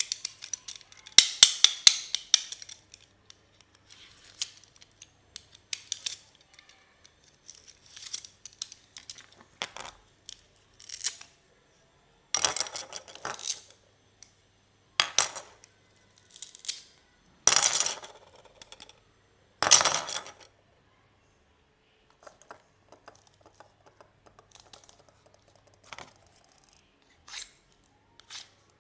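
Toy and chocolate packaging being cut open and handled: irregular bursts of crinkling and snipping plastic wrap, with small clicks and taps between them.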